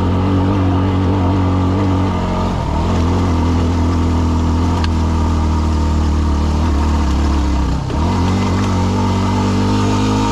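Yamaha WR250R's single-cylinder four-stroke engine running steadily. Its pitch dips briefly twice, once about a quarter of the way in and again about three quarters in, each time picking back up.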